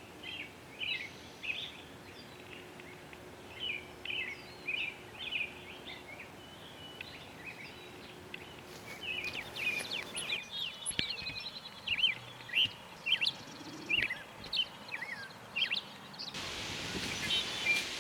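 Lazuli Bunting singing: phrases of short, sharp, varied notes, growing louder and quicker partway through. Near the end a steady rushing hiss comes in.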